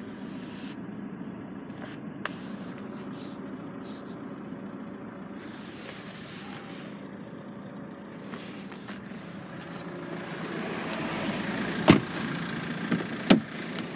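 Saab 9-3 1.9 TiD turbo diesel engine idling with a steady hum. A sharp knock comes about two seconds before the end, and a lighter one just over a second after it.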